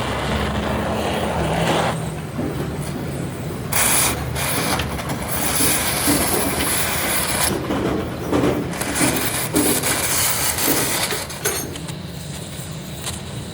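A machine motor running with a steady low hum, overlaid by irregular harsh scraping and grinding of metal being worked on the flywheel.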